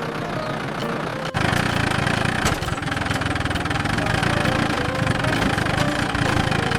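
Tractor engine running with a fast, even pulse. It steps up louder about a second and a half in, then runs steadily.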